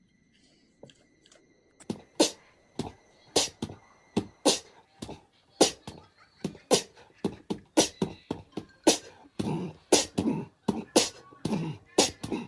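A quick, irregular series of sharp percussive pops, about two a second, starting about two seconds in.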